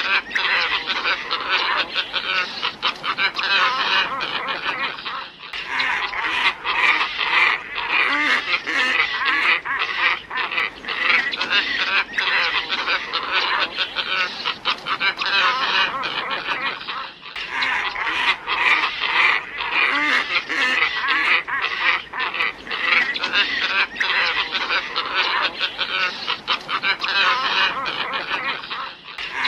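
A dense, continuous chorus of many glossy ibises calling over one another, used as a bird-lure recording. It dips briefly about every twelve seconds, as a looped recording does.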